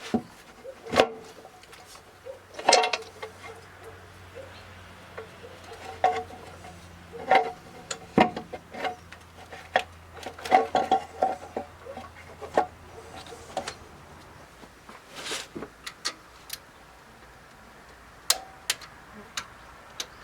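Metal hand tools clinking and tapping against each other and the engine during valve-cover work: irregular sharp clinks, some with a short metallic ring, over a faint steady hum.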